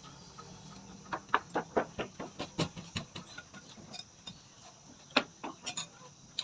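Close-miked chewing of food, heard as crisp crunches. There is a quick run of them, about four or five a second, starting about a second in, then a few more sharp ones near the end.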